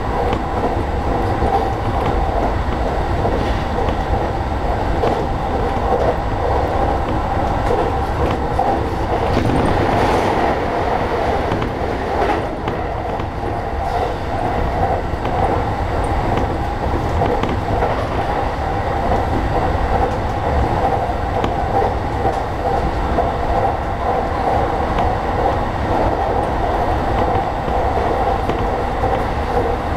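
Running noise inside a JR East E233-series electric train at speed: a steady rumble of wheels on rail with an even hum over it.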